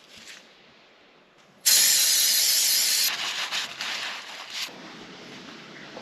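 A sudden loud hiss from a pressurised spray, starting about two seconds in and lasting about a second and a half, then fainter uneven hissing with small clicks that stops about five seconds in.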